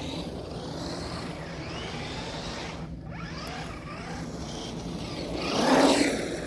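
Brushed-motor Traxxas Rustler RC truck driving on wet ground: its electric motor whines up and down in pitch over a hiss from the tyres. It dips briefly about halfway through and is loudest near the end.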